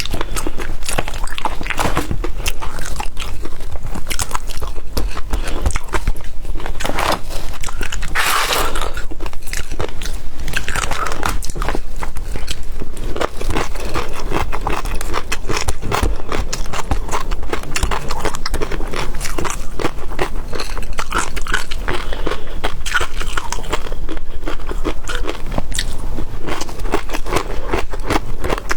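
Close-miked eating of seafood: continual biting and chewing, with many quick, irregular crunching and crackling clicks.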